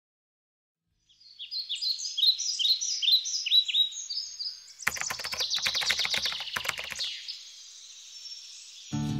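Birdsong: a busy run of quick, high, falling chirps, joined about five seconds in by a rapid clattering that lasts about two seconds. Guitar music starts near the end.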